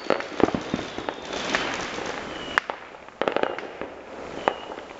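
Fireworks and firecrackers going off in irregular bangs and cracks, with a quick cluster of cracks a little past the middle.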